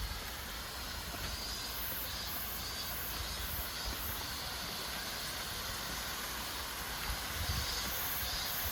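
Steady rushing hiss of a waterfall. A high, rhythmic pulsing of about two beats a second comes in over it twice, in spells of a couple of seconds each, with low rumbles near the end.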